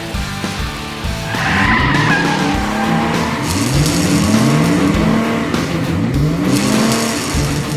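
Race-car sound effects over background music: an engine revving up in rising sweeps several times, with a tyre squeal about a second and a half in.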